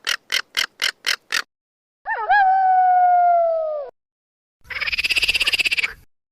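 A sequence of three separate animal calls: a run of about six quick croak-like pulses, then one long held call that sags slightly in pitch, then a buzzy, rapidly pulsing call.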